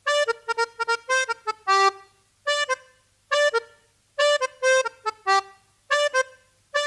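Solo accordion playing a song's introduction in short, detached notes and chords, phrase after phrase with brief pauses between.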